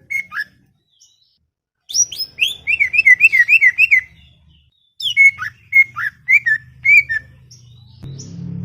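Green leafbird (cucak ijo) singing in short phrases of sharp whistled notes, with a fast run of about six rising-and-falling notes a second in the middle and pauses between phrases. A low hum comes in near the end.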